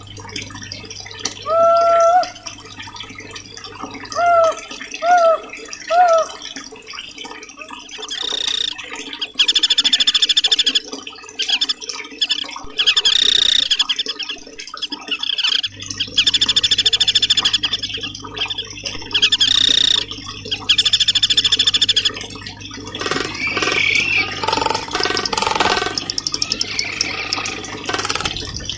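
Recorded songbird 'masteran' tutoring song: a few clear rising whistles, then long rapid buzzy trills repeated in blocks of a second or two, then a run of varied chirps near the end, over a faint steady rush of water.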